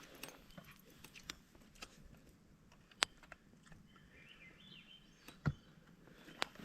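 Campfire just beginning to catch, the burning wood crackling faintly with a few sharp, scattered pops.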